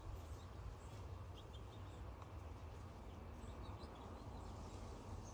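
Faint, short, high bird chirps in small groups of two or three, over a steady low background rumble.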